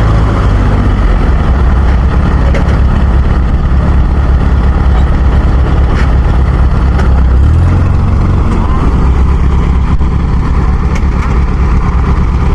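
Heavy farm machine engine running loud and steady, revving up about seven and a half seconds in.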